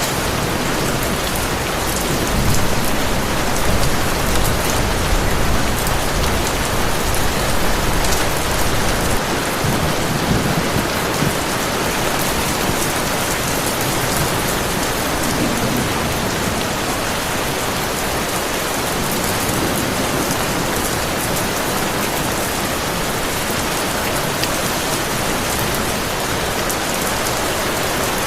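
Heavy rain falling steadily and densely, with a low rumble of distant thunder in the first half.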